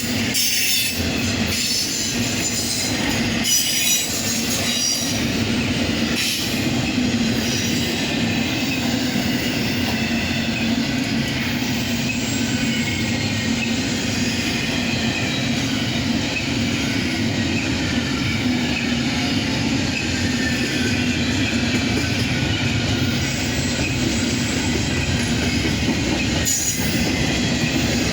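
Intermodal freight train cars rolling steadily past, with a continuous rumble and wheels squealing against the rail, and a few clicks from the wheels early on.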